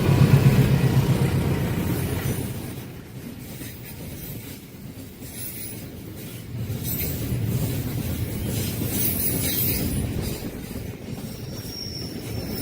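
A long train running past on the rails: a rumble and clatter of the wagons and wheels, loudest in the first two seconds and again in the second half. A thin, high wheel squeal sets in near the end.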